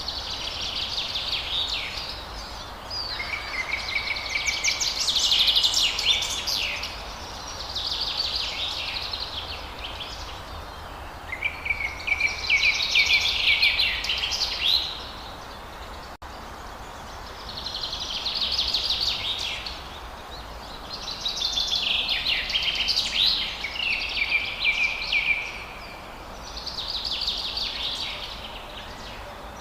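Forest songbird singing in repeated phrases of rapid chirps and trills, each a few seconds long with short pauses between; several phrases open on a brief steady whistle. A faint low background rumble runs underneath.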